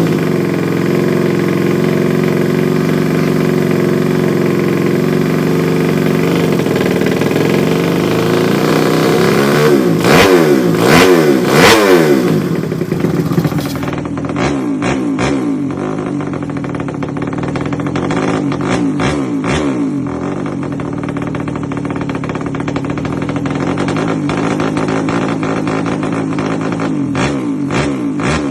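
Bored-up Yamaha Jupiter Z four-stroke single-cylinder engine idling steadily, then revved in a quick series of throttle blips about ten seconds in. After that it runs at idle again with a few shorter blips.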